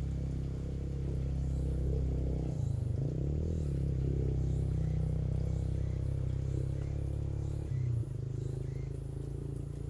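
A motor running steadily with a low hum; its pitch wavers about two and a half seconds in and shifts again near eight seconds.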